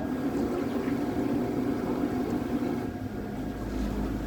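Battery-electric trimaran under way: a steady running rush with a faint constant whine.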